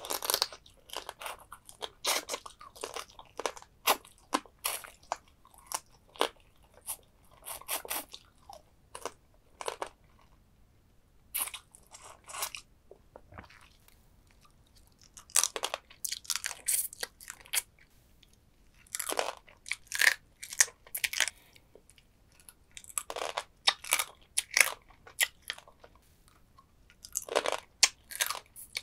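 Close-up eating sounds of soy sauce marinated crab: crisp crunching and cracking as the small crab's shell is bitten and chewed, coming in clusters with short pauses in between.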